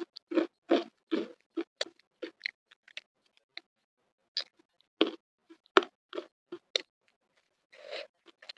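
Close-miked chewing of crispy flour-fried tuna and rice: a quick run of short, sharp mouth sounds several times a second, pausing for about a second and a half around the middle before starting again.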